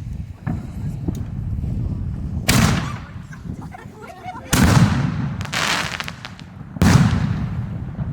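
Consumer aerial fireworks bursting: four loud bangs a second or two apart, each fading out over about a second.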